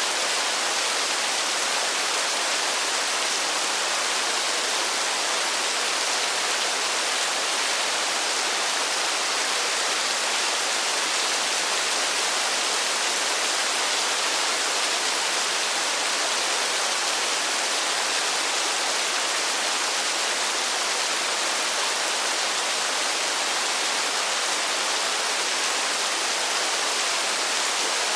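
Steady rain falling, an even hiss with no individual drops or thunder standing out.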